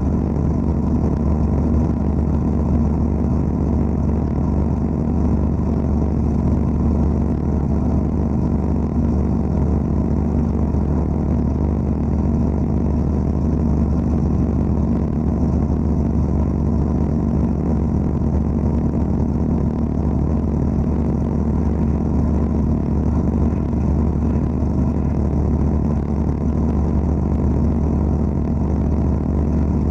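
Wet-blasting (aquablasting) equipment running: a steady, unbroken machine hum with noise over it, without change.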